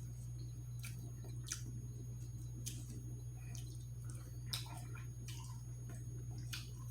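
Close-miked chewing with wet mouth clicks and smacks, scattered irregularly, over a steady low hum.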